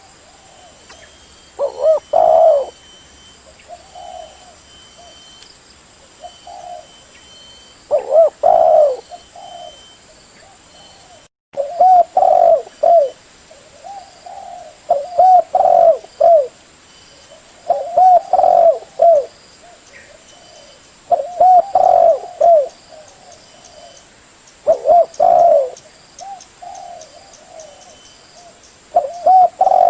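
Spotted dove cooing: a loud phrase of several low coos about every two to three seconds, with softer coos in between.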